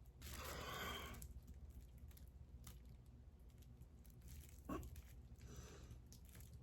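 Mostly near silence: a faint rustle of a bag being tugged at by a pet over the first second, then a few faint ticks and a brief faint sound a little before the end.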